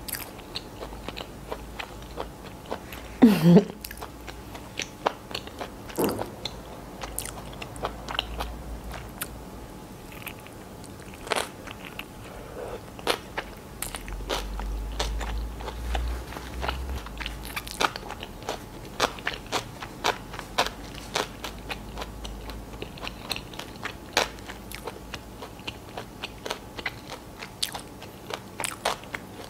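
Close-miked chewing of a chicken mayonnaise sandwich on soft white bread with lettuce: a steady run of wet mouth clicks and small crunches. About three seconds in comes one brief, louder sound that falls in pitch.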